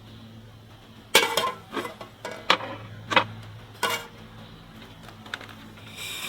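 Five short, sharp knocks and clacks spaced under a second apart, then a few fainter ticks: kitchenware such as dishes or utensils being handled and set down, over a low steady hum.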